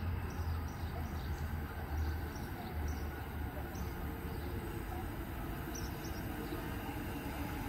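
Sydney Trains Waratah electric train approaching a station platform: a low, steady rumble, with faint high chirps over it.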